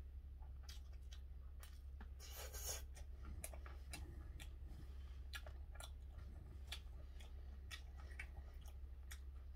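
A man chewing a mouthful of gwamegi with garlic, close to the microphone: faint, irregular wet clicks and smacks of the mouth. A brief hiss about two and a half seconds in.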